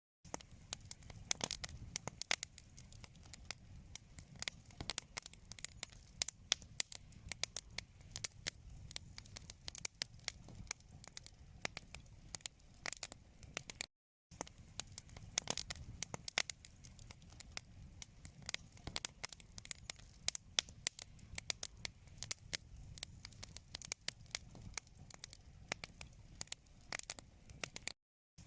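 Wood fire crackling in a fireplace: frequent sharp pops and snaps over a low rumble of burning. The sound drops out completely for a moment about halfway through and again near the end.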